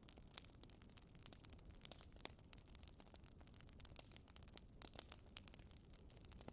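Faint wood fire crackling in a fireplace: irregular sharp pops and snaps over a low, steady rumble.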